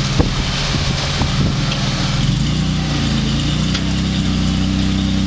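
Off-road rock crawler's engine running at low revs, with scattered knocks and a sharp click in the first couple of seconds, then settling into a steady note after about two and a half seconds.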